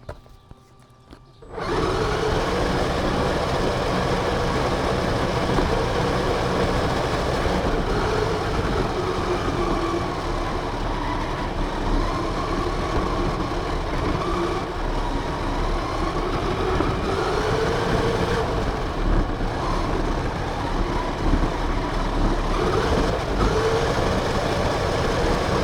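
RC car driving, heard from a camera mounted on it: its motor whine rises and falls with speed over a loud rush of tyre and wind noise. It starts suddenly about a second and a half in.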